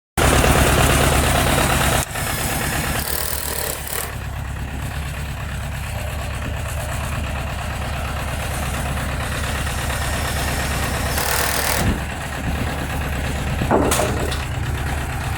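Small farm tractor's engine running steadily with a low, pulsing drone; the sound drops abruptly in level at about 2 seconds, and brief rattling noises come in twice near the end.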